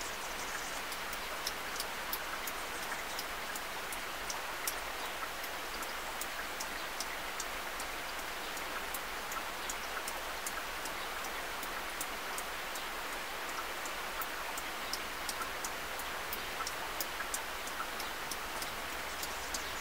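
Rain falling on a car's windshield, heard from inside the cabin: a steady hiss with scattered, irregular sharp taps of single drops striking the glass and body.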